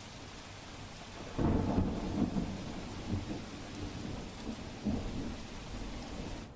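Heavy rain falling in a steady hiss, with a rumble of thunder breaking in about a second and a half in. The rumble is loudest at its start and rolls on in uneven swells.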